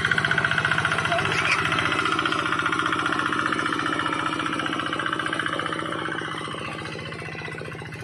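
Paddy-field hand tractor's engine running hard with a fast, even chugging beat, getting quieter from about six seconds in.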